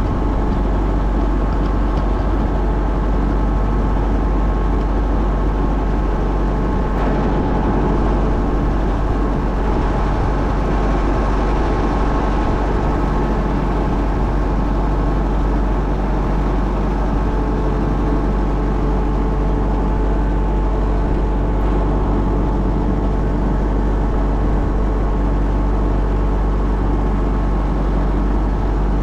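A motor running steadily at a constant speed, a continuous mechanical drone with a deep rumble beneath it.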